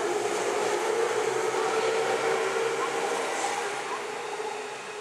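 Electric train running past close by: a steady rumble and rush of wheels on rails with a steady hum from its motors, beginning to fade near the end as it moves away.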